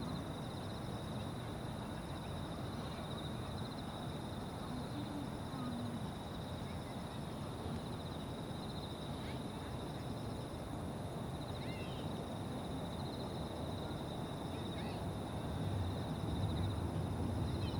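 Evening insects trilling steadily, a fine pulsing high trill with a fainter, even higher one above it, over a low distant rumble that swells near the end. A few brief falling chirps sound now and then.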